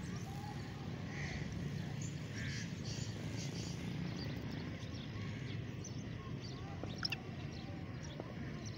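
A few faint, short bird calls over a steady low outdoor rumble of wind and camera handling, with a small click about seven seconds in.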